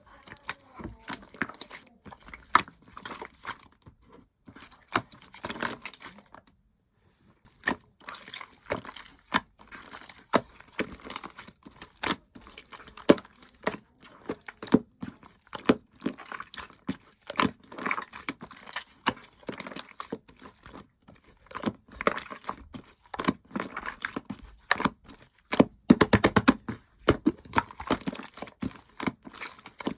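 Slime being squeezed, stretched and poked by hand, giving irregular wet pops and crackles. The sound stops briefly about seven seconds in, and there is a dense rapid run of pops near the end.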